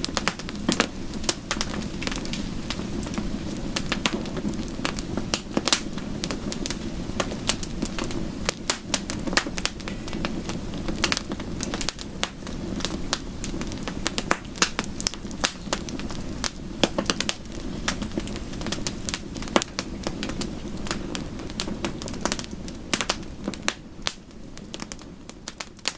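Wood fire crackling, with frequent sharp pops over a low, steady rush. It fades down near the end.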